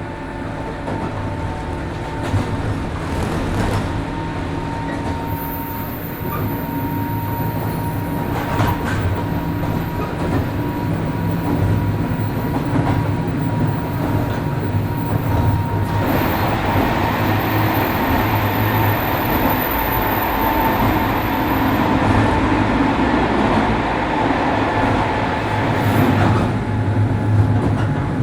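Running noise heard from inside a 103 series 1500-subseries electric train: a steady drone of motors and wheels on rail, with a steady high whine. The rumble grows louder and fuller about halfway through and eases a little near the end.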